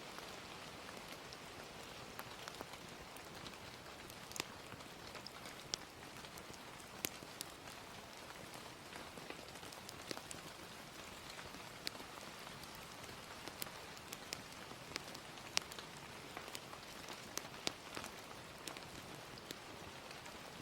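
Gentle steady rain as a soft even hiss, with scattered irregular sharp pops and crackles of a wood fire.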